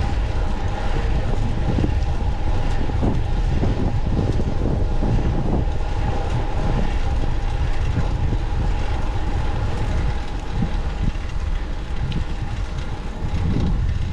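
Wind buffeting the microphone on a moving fixed-gear bicycle, with a dense low rumble and scattered knocks from the road. A faint steady hum fades out about ten seconds in.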